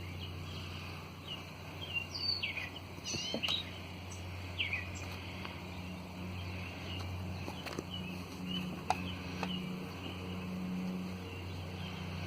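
Birds chirping: a cluster of short, falling high calls a few seconds in, then scattered single chirps, over a steady low hum.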